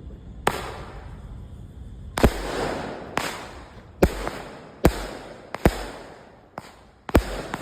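A firework going off in a series of sharp bangs, about one a second after the first, each trailing off briefly; about eight shots.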